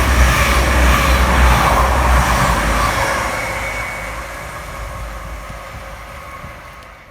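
Class 222 Meridian diesel multiple unit running through the station, with a deep engine rumble and wheel noise, loudest in the first three seconds and then fading steadily as it draws away.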